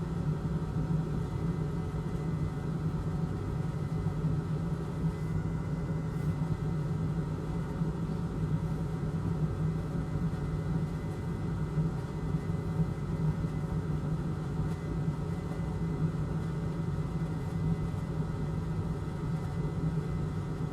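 Steady hum of a small electric motor, one constant low tone with fainter higher tones above it, unchanging throughout.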